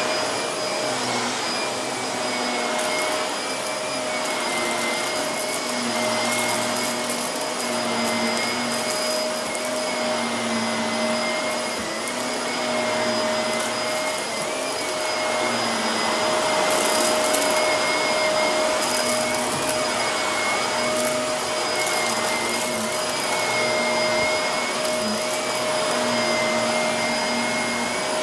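Vacuum cleaner running steadily with a high motor whine, crackling in bursts as it sucks up fine dirt and grit. A lower hum swells and fades every second or two.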